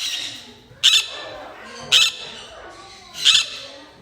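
Parrots squawking: three loud, harsh, shrill calls about a second apart over the lower chatter of other birds.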